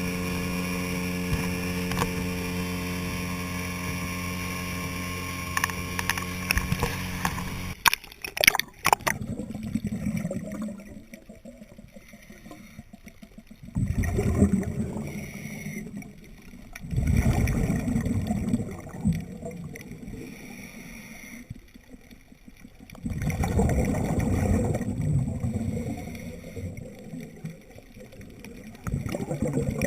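A boat engine runs steadily for about eight seconds, then cuts off with a few sharp clicks. After that, scuba exhalation bubbles sound underwater in bursts every few seconds, about four times, with quieter gaps between breaths.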